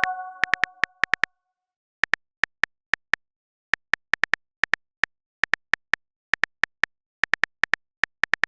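Quick, sharp keyboard typing clicks in irregular runs, from a chat-story app's simulated phone keyboard, with a message chime fading out at the start.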